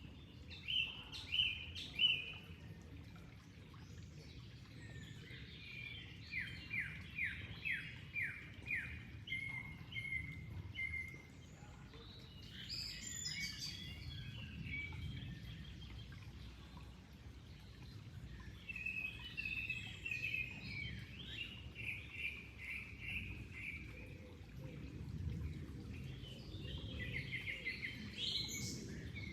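Songbirds singing in separate phrases of quick chirps, one a run of about seven falling notes, over the steady low rush of flowing water.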